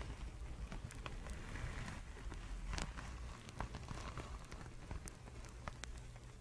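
Fabric rubbed and rustled close to the microphone, a soft scratchy brushing with scattered small clicks, over a steady low hum.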